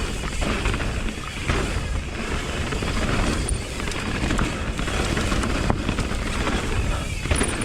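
Mountain bike on a downhill dirt trail: steady rushing wind and tyre noise, with scattered clicks and knocks from the bike over the rough ground.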